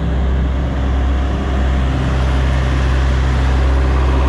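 Kenworth K200 cabover's Cummins diesel engine idling steadily while the truck's air system builds pressure.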